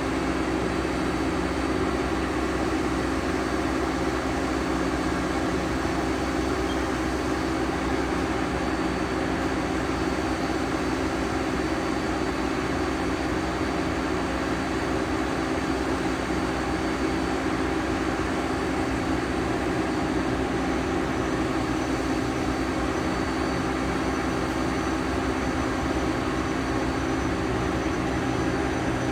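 Toshiba BF-130A CNC horizontal boring mill running: a steady mechanical hum with a few faint, steady high-pitched whines over it.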